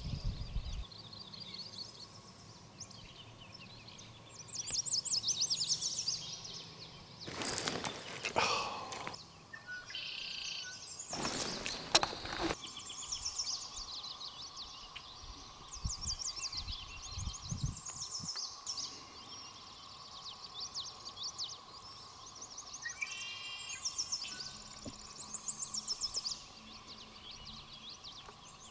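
Songbirds singing: short, repeated high trilling phrases one after another, with two brief rushes of noise in the first half.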